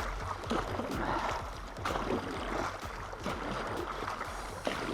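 Water sloshing and lapping around a canoe on a river, with a few light knocks.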